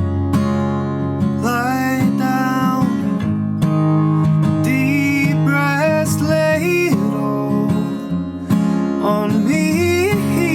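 Acoustic guitar being strummed, with a voice singing a melody over it from about a second and a half in.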